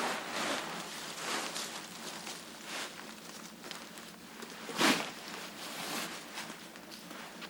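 Dry leaves and twigs rustling and crunching in irregular bursts, with one louder crunch about five seconds in.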